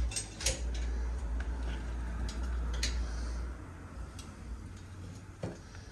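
A few scattered light clicks and taps over a low steady hum that drops away about halfway through.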